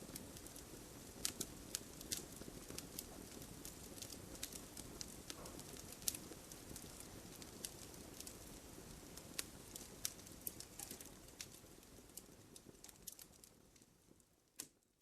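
Wood fire crackling in a fireplace: a low steady rumble of flames with scattered sharp pops and snaps. The sound fades out over the last few seconds, with one last pop just before it ends.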